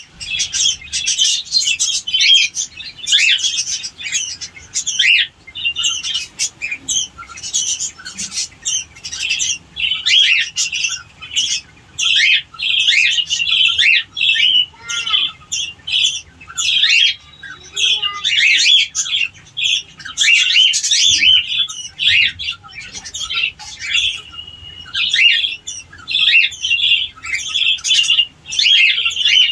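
A group of cockatiels chirping and squawking continuously, with many short calls overlapping and now and then a brief held whistle.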